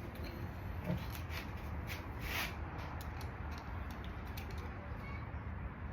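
Scattered light clicks and taps of metal engine parts being handled, with a short scrape about two seconds in, as a stuck camshaft is worked at in a scooter's cylinder head.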